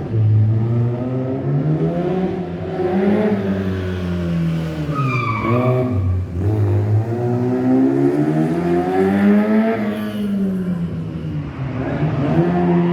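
Rally car engine revving hard, its pitch rising and falling several times and dipping sharply about six seconds in, as in a sideways drifting run. A brief high-pitched squeal comes just before the dip.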